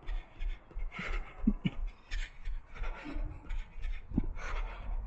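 A runner's footfalls thudding steadily about three times a second, with heavy breathing and panting over them.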